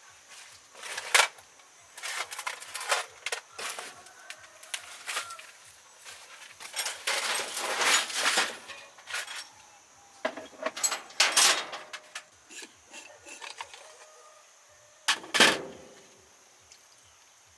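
Irregular clinks, knocks and scrapes of hand work, with a longer scraping stretch around seven to eight seconds in and a sharp loud knock near the end. A faint, even ticking of about three a second runs underneath.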